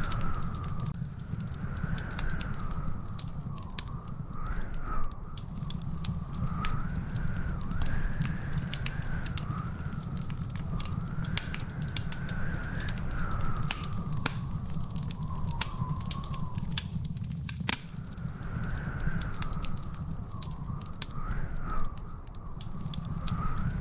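Fireplace fire crackling, with frequent sharp pops over a steady low rumble. A thin tone wavers slowly up and down in the background.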